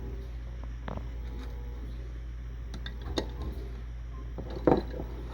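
A few light knocks and taps over a steady low hum, from eggs being handled at a container of water during a float test. The sharpest knock comes near the end.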